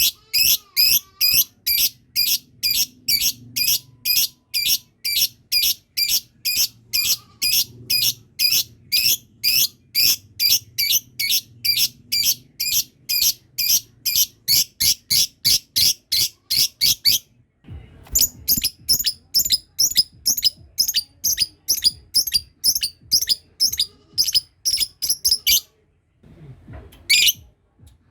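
Lovebird giving a long 'ngekek' call: an unbroken run of sharp, high chirps repeated fast and evenly, about three a second. It breaks off briefly a little past halfway, picks up again, then trails off into a couple of single calls near the end. This long run of kekking is the call that lovebird keepers prize.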